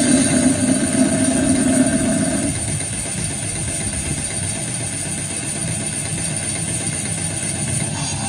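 Harsh-noise section of a goregrind/noise set: a steady, dense distorted drone with no beat, holding a pitched tone for the first two and a half seconds and then going on as plain noise.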